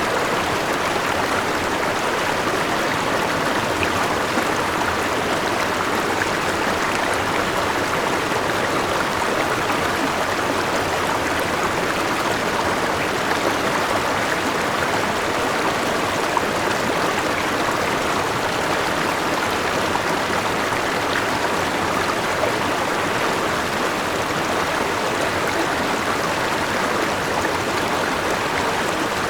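Forest river rushing steadily over rocks, a continuous even splashing and gurgling of flowing water.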